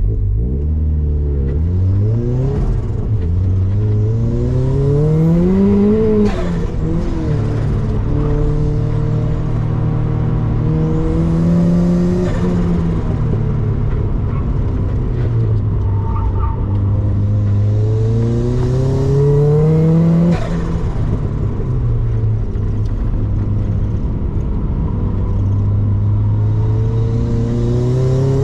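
Turbocharged Mazda MX-5 engine driven hard, its revs climbing in long rises and falling several times, with two sharp drops in revs.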